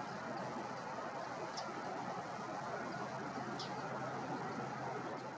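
Steady outdoor background hiss, with two faint, short, high bird chirps about a second and a half and three and a half seconds in.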